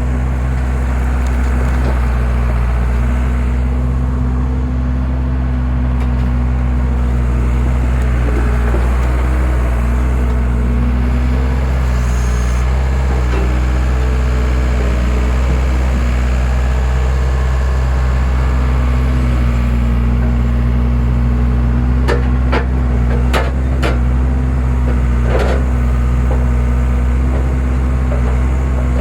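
Skid steer engine running steadily at a constant speed, driving a homemade log splitter. A few sharp cracks and knocks come close together about three quarters of the way through.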